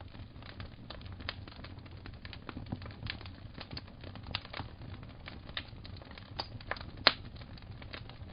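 Fireplace fire crackling: irregular sharp pops and snaps over a low rumble, with the loudest pop about seven seconds in.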